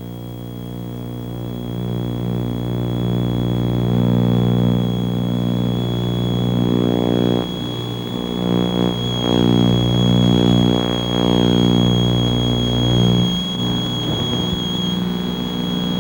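Twin piston engines and propellers of a Piper Seneca at takeoff power, heard from the cockpit: a steady, loud drone that builds over the first few seconds as power comes up, then holds.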